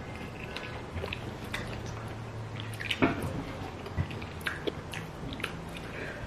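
People chewing food eaten by hand, with mouth smacks and scattered small clicks, two of them a little louder about three and four seconds in.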